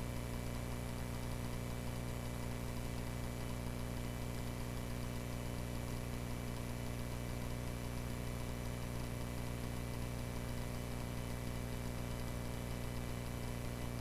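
Cessna 140A's four-cylinder piston engine and propeller droning steadily in flight, with no change in pitch.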